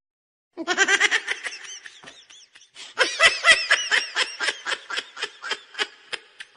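Baby laughing in two bouts: a first burst that fades, then about three seconds in a run of quick, rhythmic giggles, about five a second, that tails off.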